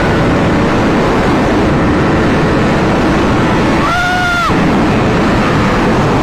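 Honda CBR1000RR-R Fireblade's inline-four riding at speed: a dense, steady rush of engine and wind noise. About four seconds in there is a brief, steady, horn-like tone with overtones, lasting under a second.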